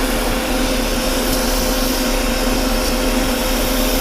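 Metal lathe running steadily on a roughing cut along a steel shaft: an even hum with a constant hiss over it.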